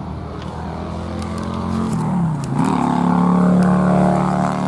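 Car engine running; about two seconds in its pitch dips and then climbs again, and it grows louder and holds steady.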